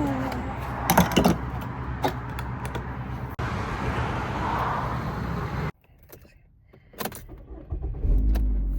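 A truck's engine running with a steady low hum, with sharp clicks and jangling like keys over it. The sound cuts off abruptly about two-thirds of the way through, leaving a few clicks, and a low hum starts again near the end.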